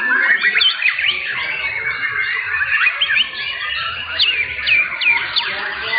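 White-rumped shama (murai batu) song: a dense, unbroken stream of fast whistled notes sweeping up and down, with several phrases overlapping.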